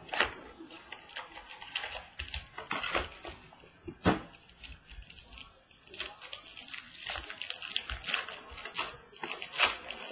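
Trading-card packaging being opened and cards handled: a run of rustling, crinkling and tearing with sharp clicks, and two louder snaps near the start and about four seconds in.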